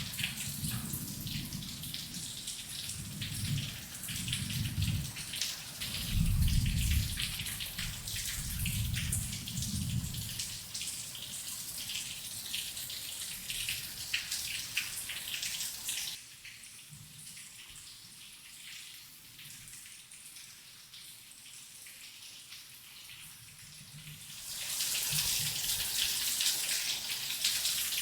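Heavy rain falling steadily, with low rolls of distant thunder swelling and fading through the first ten seconds. About sixteen seconds in the rain drops suddenly to a quieter, lighter patter, then comes back loud near the end.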